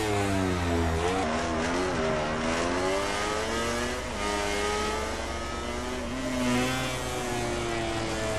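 MotoGP racing motorcycles at high revs, several engines overlapping, their pitch rising and falling through gear changes.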